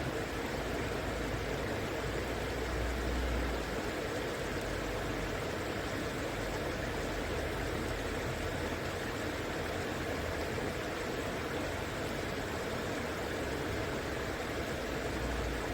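River water flowing, a steady even rush. A deep low rumble underneath swells and fades a few times.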